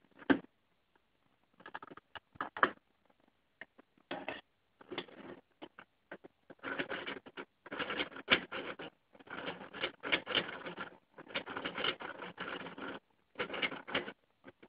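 Small plastic Lego parts clicking and rattling in stop-start bursts of about a second each, with short gaps between: a two-piston Lego model engine working.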